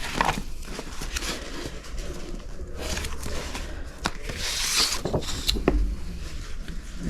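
Paper rustling and scraping as a stack of old sheet music is handled and leafed through, with a few short knocks; the loudest rustle comes about four and a half seconds in.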